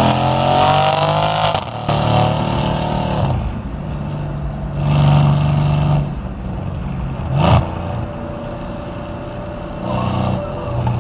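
Mercedes-AMG C63 S twin-turbo V8 revving in surges. The first rev climbs for about a second and a half, then drops off, and several shorter revs follow. There is a sharp crack about seven and a half seconds in.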